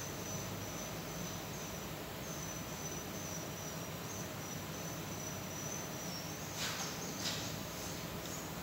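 A steady high insect trill, held as one continuous, slightly wavering tone, with a couple of brief rustles or knocks near the end.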